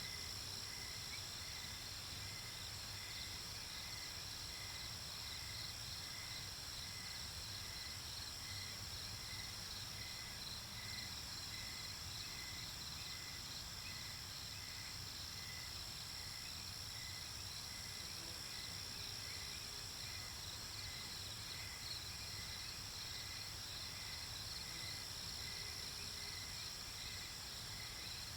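Night-time insect chorus of crickets chirping: a steady high-pitched trilling over a regular chirp that repeats a little more than once a second, with a faint low rumble underneath.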